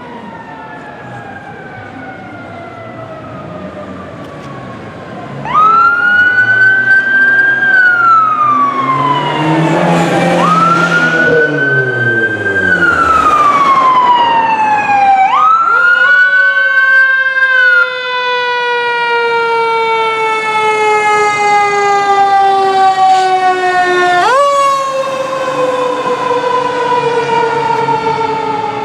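Fire engine sirens: a faint distant siren falling in pitch, then about five seconds in a loud siren starts close by. It winds up quickly and falls away slowly, again and again, with several fresh rises. Engine and road noise swell briefly as the 2019 Seagrave Capitol fire engine passes.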